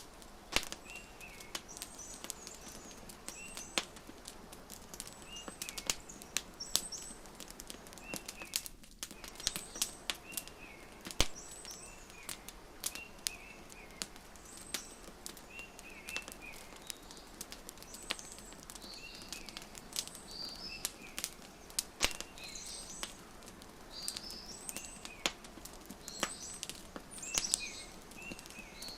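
Wood fire crackling with frequent sharp pops, over small birds chirping in short phrases that come every couple of seconds.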